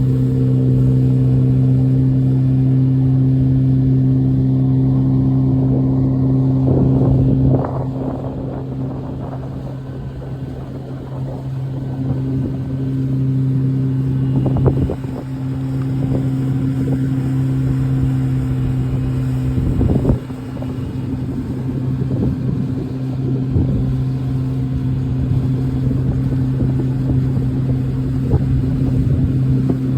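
Motorboat engine running steadily at a low, even pitch, with a few sharp thumps and splashes from the hull meeting waves in choppy water. The engine drops back after the first thump and builds up again.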